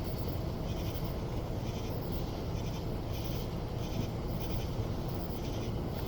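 Steady rain falling, with a faint high pulsing about twice a second over it.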